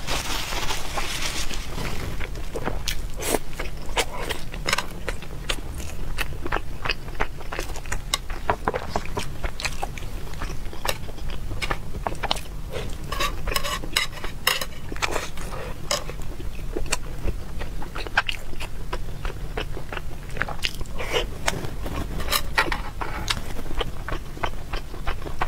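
Close-miked chewing and mouth sounds of a person eating large dumplings in chili sauce, with many short clicks throughout.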